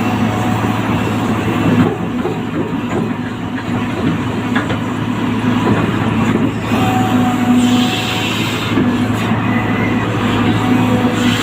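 Engine running steadily: a constant low hum under a rough, rattly noise.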